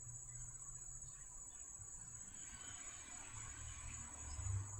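Insects, such as crickets, trilling steadily at a high pitch over a low hum, with faint rustling around the middle.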